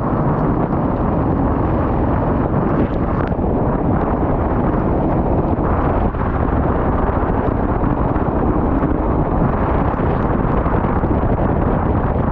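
Go-kart on a wet track heard from an onboard microphone: a steady, loud rush of wind buffeting and running noise, with no clear engine note standing out.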